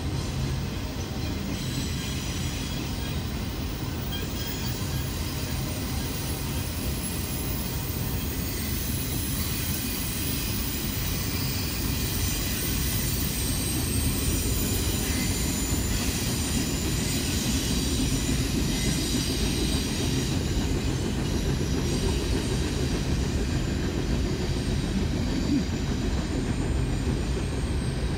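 Freight train cars rolling past: a steady rumble of steel wheels on the rails with a thin, high wheel squeal over it, growing a little louder about halfway through.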